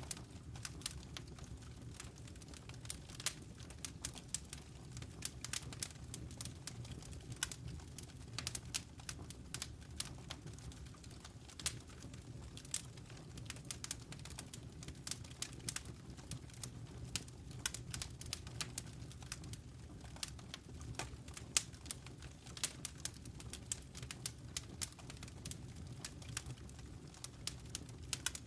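Fireplace wood fire crackling: irregular sharp snaps and pops, several a second, over a low steady rumble of the flames.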